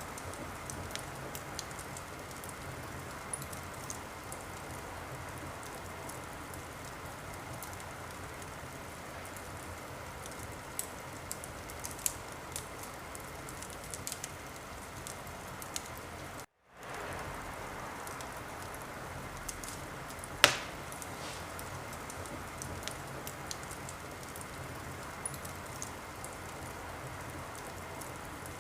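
Wood fire crackling in a fireplace: a steady hiss with scattered small crackles and one loud, sharp pop about twenty seconds in. The sound cuts out completely for a split second a little past the middle, then comes back.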